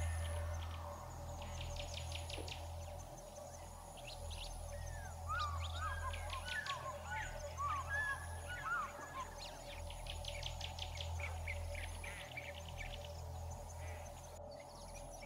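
Birds chirping, with fast high trills and a flurry of short rising and falling chirps in the middle, over a steady low hum.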